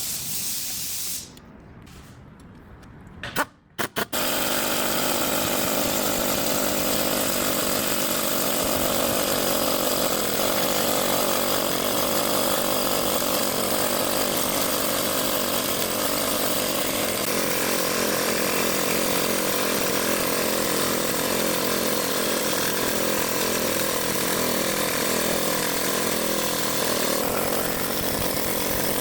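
A power tool running steadily under load, after a brief quieter spell with a few sharp clicks in the first four seconds.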